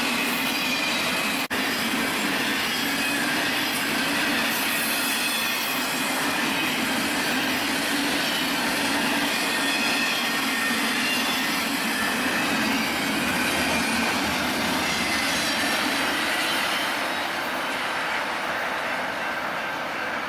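Union Pacific freight train's cars rolling past, steel wheels on rail making a steady rolling noise with faint wheel squeal. There is a very brief dropout about a second and a half in, and the sound eases off slightly near the end.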